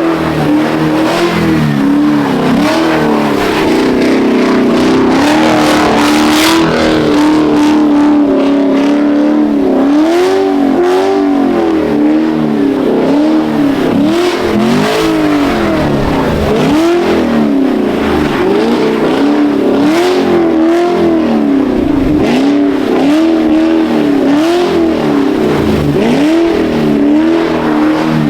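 Full-bolt-on Chevrolet Camaro's engine revving hard. It is held high for several seconds, then rises and falls in quick repeated rev swings about once a second as the car is slid in snow.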